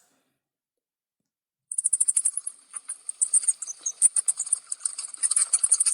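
Cricket chirping: rapid, high-pitched pulsed trills that start about two seconds in after a silence.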